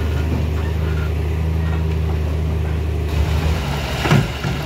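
A truck engine running with a steady low drone; about three and a half seconds in, the note changes, and a short, louder burst follows near the end.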